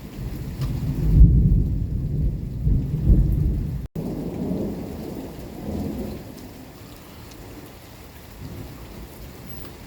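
Rolling thunder rumbling over steady rain. The rumble is loudest in the first few seconds, is broken by a split-second dropout, and dies away after about six seconds, leaving the hiss of rain.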